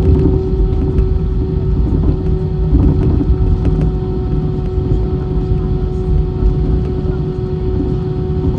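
Airbus A320 engine noise heard inside the passenger cabin: a loud, steady roar with a constant hum tone running through it.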